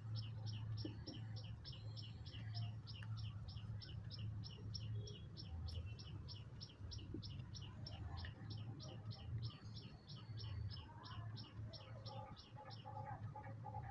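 A bird repeating one short, falling chirp over and over at an even pace of about three or four a second, stopping about a second before the end. A low steady hum runs underneath, and the whole is faint.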